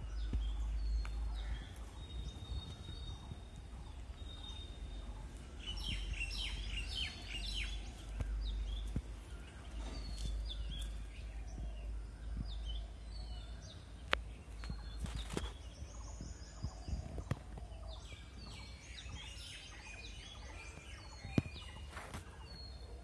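Birds chirping and twittering outdoors, with two busier spells of rapid calls about six seconds in and again near twenty seconds, over a steady low rumble. A few sharp clicks.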